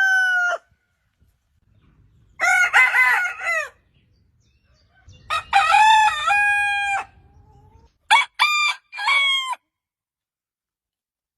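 Rooster crowing: the tail of one crow, then three separate crows a few seconds apart, the last one broken into three short pieces.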